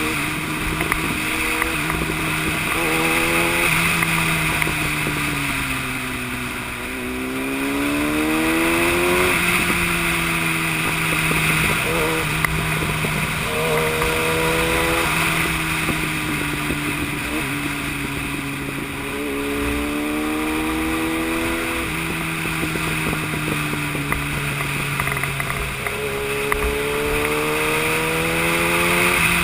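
Yamaha YZF-R1 inline-four engine running at speed, its pitch climbing and falling back several times as the bike accelerates and eases off, over a steady rush of wind noise.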